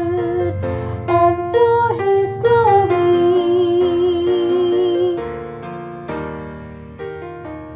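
A woman sings a mezzo-soprano choral part over piano accompaniment, ending a phrase on a long held note with vibrato. Her voice stops about five seconds in, leaving the piano playing on its own.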